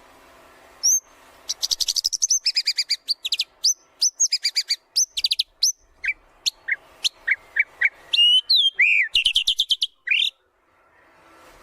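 White-rumped shama (murai batu) singing a fast, varied song: rapid runs of repeated sharp notes and whistled glides, breaking off briefly about ten seconds in.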